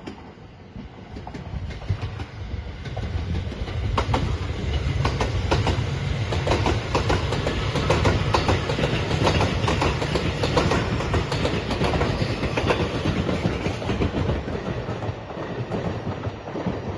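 A passing train with its wheels clattering over the rail joints. It builds over the first few seconds, runs loud through the middle, then fades near the end.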